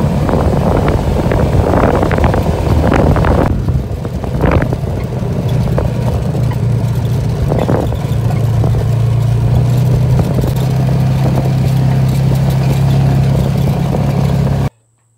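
Engine of a Polaris off-road vehicle running steadily as it drives, with rattling from the vehicle in the first few seconds. The sound stops abruptly near the end.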